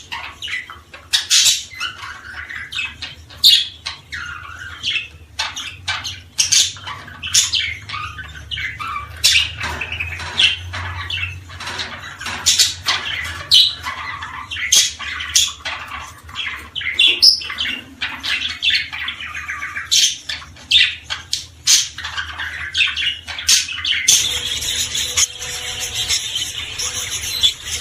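Small cage birds chirping in a rapid run of short, sharp calls. Near the end the calls thicken into a dense, continuous chatter.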